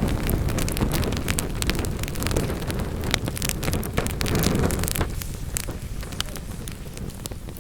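Wood fire in a fireplace crackling and popping, with many sharp snaps over a low rushing roar of flame. The low roar eases after about five seconds while the crackling goes on.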